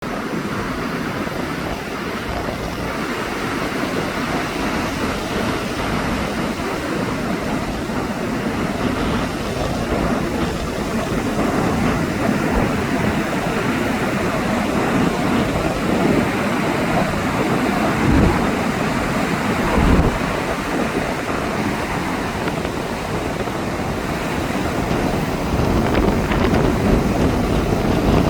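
Ocean surf washing onto a beach, a steady rush of breaking waves mixed with wind buffeting the microphone, with two louder low surges past the middle.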